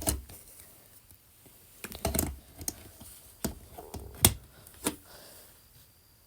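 Irregular taps and clicks on a device while answering a language-app lesson, about half a dozen spread over a few seconds.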